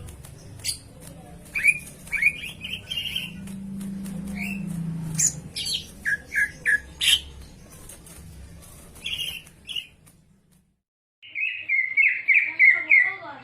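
Cucak ijo (green leafbird) singing a chattering series of short, sharp chirps and quick falling whistles. A brief break comes about ten and a half seconds in, then a fast run of falling notes.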